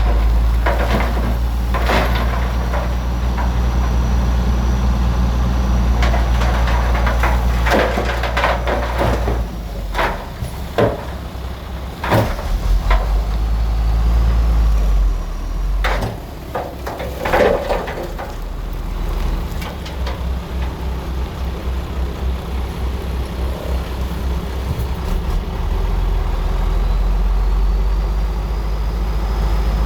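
Heavy diesel engine of a bulldozer running steadily under work, its low rumble rising and easing at times. Sharp metal clanks and knocks come through at irregular moments, the clearest about 2, 9, 12 and 17 seconds in.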